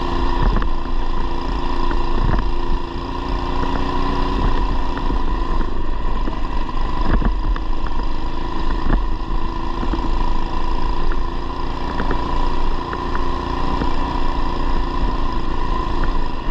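Coleman BT200x mini bike's 212cc single-cylinder engine running steadily as it is ridden, with scattered clicks and knocks over the engine.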